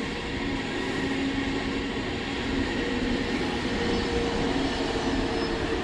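ICE high-speed train moving past along a station platform: a steady running noise of wheels on rails with a steady hum.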